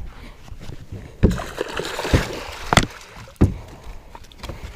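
A few sharp knocks and dull thumps on a fishing boat, with some splashing, as a caught fish is handled.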